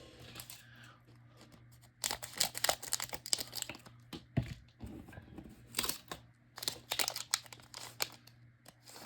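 A trading card pack's wrapper being torn open and crinkled by hand: a run of short rips and crinkles starting about two seconds in.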